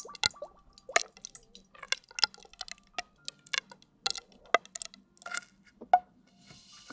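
Close-up wet ASMR sounds: irregular drips, plops and squishes, one to three sharp little pops a second, some with a brief ringing note.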